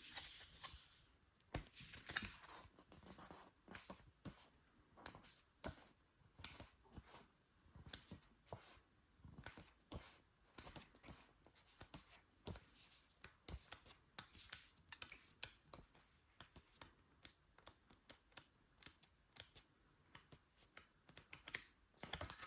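Faint paper rustles and short clicks in quick succession: the pages of a small booklet being leafed through by hand.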